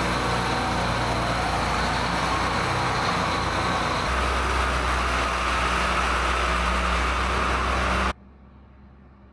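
Engine running steadily, its low hum getting stronger about four seconds in; it cuts off abruptly about eight seconds in, leaving only a faint low hum.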